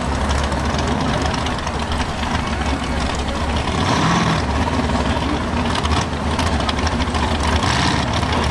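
A drag-race mini pickup's engine idling loudly, a steady low rumble.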